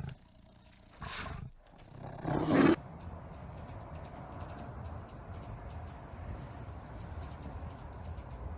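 Three short, loud animal calls in the first three seconds, the third the loudest, followed by a steady outdoor background with a faint high, rapidly ticking buzz.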